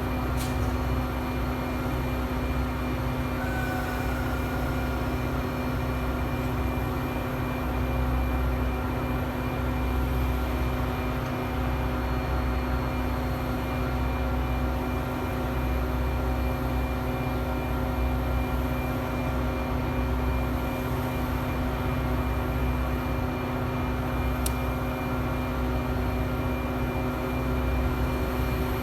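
Heavy diesel engine, typical of a Metra locomotive, idling steadily: a constant hum with a low rumble beneath.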